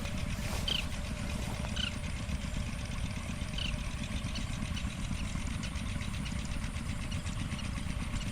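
Oriental pratincoles calling: four short, sharp chirps within the first few seconds, over a steady low rumble.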